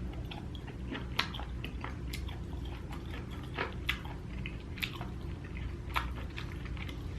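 A person chewing food close to the microphone: irregular mouth clicks and smacks, roughly one a second.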